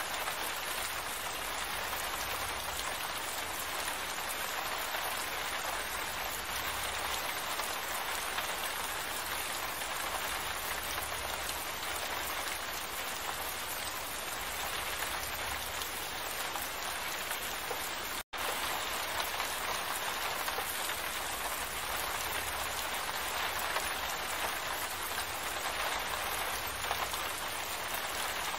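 Steady rain falling, an even hiss of countless drops with no let-up in strength. The sound cuts out for an instant about eighteen seconds in, then carries on as before.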